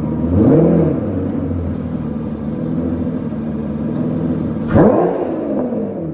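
Aston Martin Vanquish V12 idling with its exhaust valves bypassed open. The engine is blipped twice, once near the start and once near the end; the second blip is sharper and opens with a crack.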